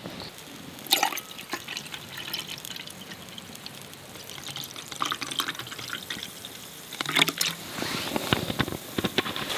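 Water being poured and dripping, with a few light knocks and clicks of things being handled, busiest near the end.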